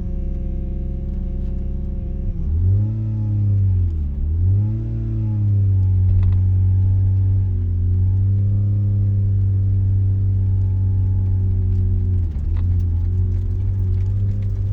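Mazda RX-7's rotary engine breathing through an RE Amemiya Dolphin Tail 90 Curl exhaust, heard from inside the cabin with the windows down. It idles steadily, then pulls away with the pitch rising, drops once at a gear change about four seconds in, and settles into a steady cruise with another brief dip near the end.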